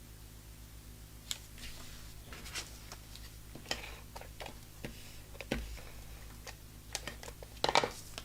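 Scattered light clicks, taps and short rustles of cardstock being handled and an adhesive tape runner being worked on the paper, with the loudest cluster of clicks near the end.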